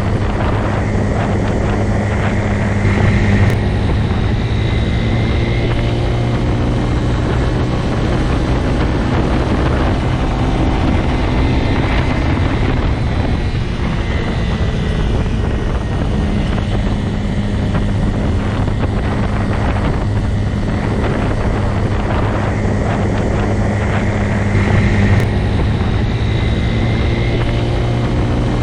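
Motorcycle engine running steadily at an even pitch, swelling slightly in loudness a few seconds in and again near the end.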